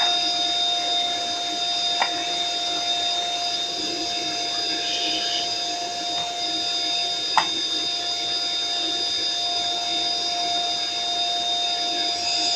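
Vacuum cleaner motor running steadily with a constant high whine, broken by two short clicks, one about two seconds in and a sharper one past the middle.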